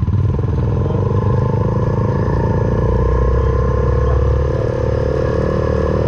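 Suzuki Van Van 125's single-cylinder four-stroke engine running under way through an aftermarket Black Widow full exhaust, its revs rising gradually over the middle of the stretch.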